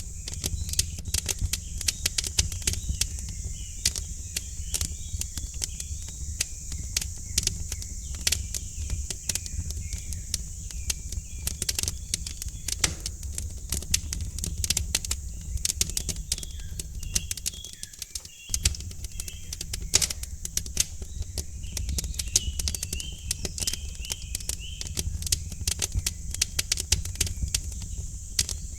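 Wood fire in a fireplace crackling and popping with many irregular sharp snaps over a steady low rumble, while small birds chirp in the background.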